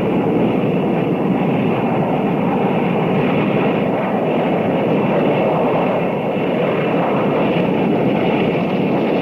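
A train running, a steady dense rumble and rush of noise with no clear rhythm, thin in the highs as on an old film soundtrack.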